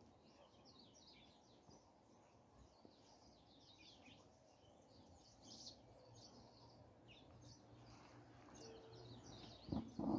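Faint outdoor birdsong, many short chirps from several birds, over a quiet background. Near the end there is a brief louder noise.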